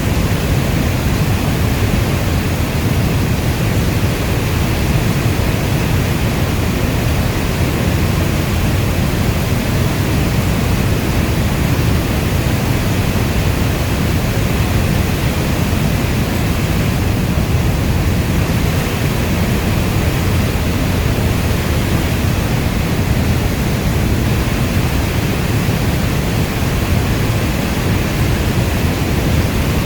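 Steady rainstorm: a dense, even hiss of rainfall with its weight in the low end and no separate drops or thunder standing out.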